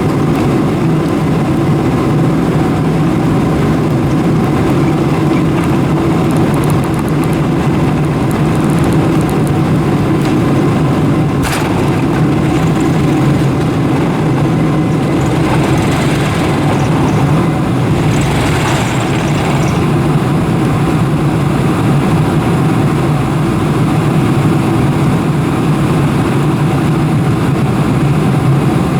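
Boeing 747-400 cabin noise: the jet engines running steadily with a constant low hum, heard from inside the passenger cabin. There is a single sharp click about eleven seconds in and a brief rise in hiss a few seconds later.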